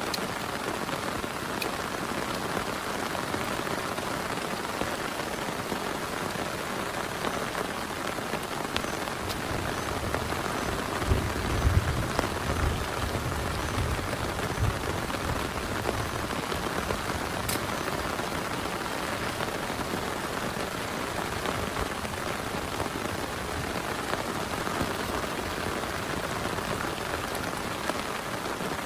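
Heavy rain falling steadily, with a low rumble for a few seconds around the middle.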